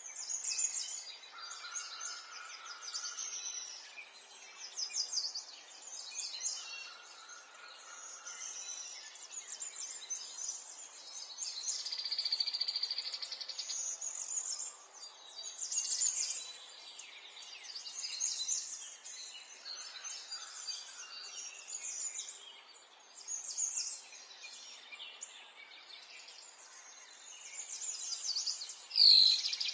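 Wild birds singing and calling over a light outdoor background: rapid high trills and chirps from several birds, coming and going every second or two. Near the end a brief, loud, sharp call or knock stands out as the loudest sound.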